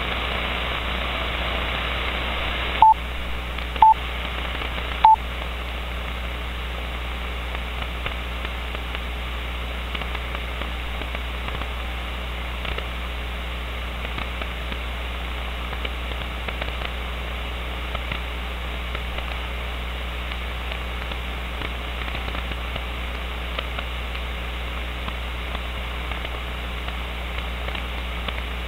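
CB radio receiver hiss on an open channel between transmissions, with three short beeps about a second apart a few seconds in, then steady static.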